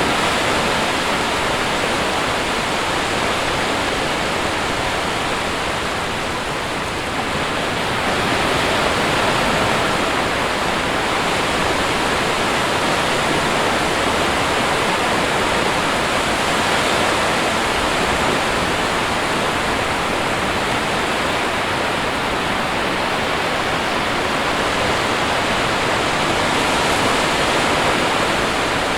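Sea surf: a steady, continuous rush of breaking waves, easing slightly in level about six seconds in.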